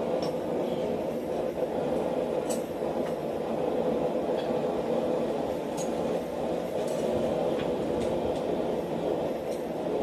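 Blacksmith's forge fire running with its air blower: a steady rushing noise, with a few faint ticks over it.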